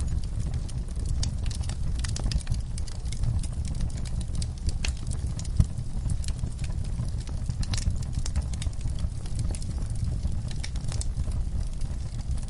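Outdoor wood fire crackling: irregular sharp pops and snaps over a steady low rumble, with one louder pop about halfway through.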